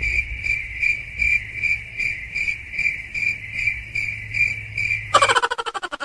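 A high, steady trill pulsing about two to three times a second, typical of a cricket chirping. About five seconds in it breaks off into a rapid run of clicks.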